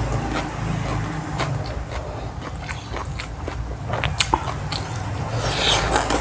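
A person eating close to the microphone: chewing and biting, with many short crisp crunches and clicks of the mouth.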